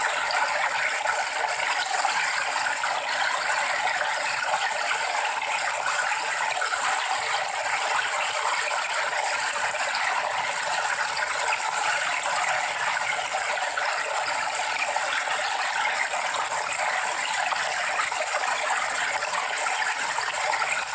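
Running water: a steady, even rushing with a fine crackling texture and no deep rumble.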